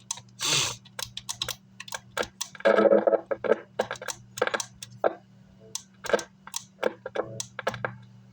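Car amplifier's test speaker crackling and popping at irregular times over a steady low hum, with the signal cutting in only in short bursts. The technician puts this down to a dirty, faulty switch making intermittent contact.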